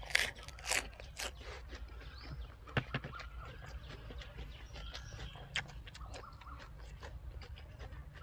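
A person chewing and crunching food close to the microphone: a run of short, sharp crunches and clicks, loudest in the first second or so, then scattered and softer.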